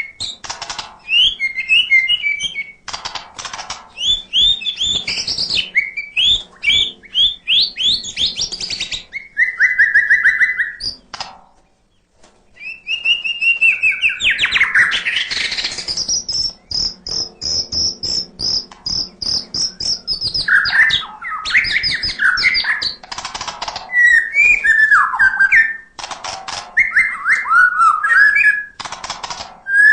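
White-rumped shama (murai batu) singing continuously: a loud, varied run of whistled phrases, quick sweeps and trills mixed with sharp clicks. There is a short break about twelve seconds in, and a long high held note follows soon after.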